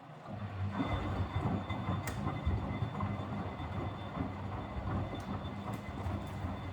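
Miele W761 washing machine's drum motor starting up about a third of a second in and turning the drum, a steady low rumble with a hum, with a few faint ticks.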